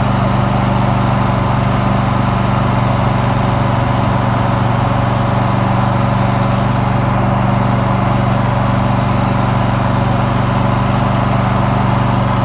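Riding lawn mower's engine running steadily at a constant speed while the mower drives along.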